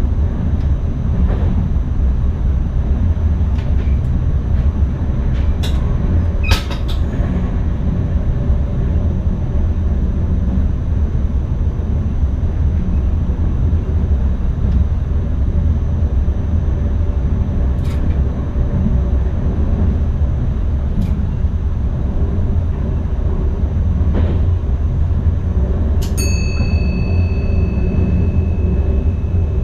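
Cab noise of an NS ICM electric multiple unit running along the line: a steady low rumble of wheels on rails, with a few sharp clicks. A high tone starts near the end and holds.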